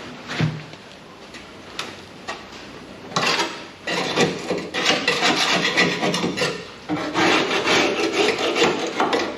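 A few light knocks, then from about three seconds in a grinder rasping against the rusty sheet steel inside a 1962 Chevrolet C10 cab, in long passes with two short breaks.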